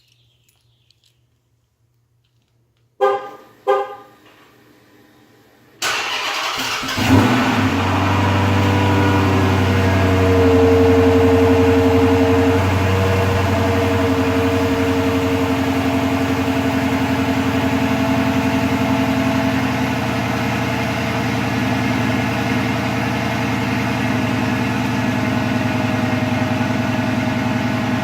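Two short horn chirps, then the 2013 Dodge Challenger R/T's 5.7-litre HEMI V8 is remote-started. It catches with a brief rev flare and settles into a steady idle through the factory cat-back exhaust, easing down slightly about two-thirds through.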